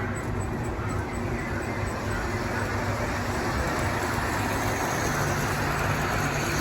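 G-scale model train running on its track: a steady rumble of wheels and motor that grows somewhat louder over the second half.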